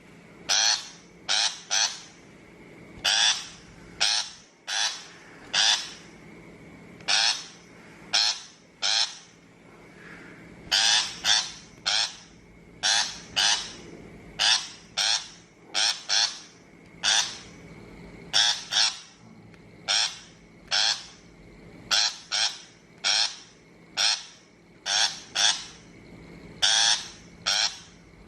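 Shrike giving harsh, scolding calls in short runs of two or three, repeating every second or two.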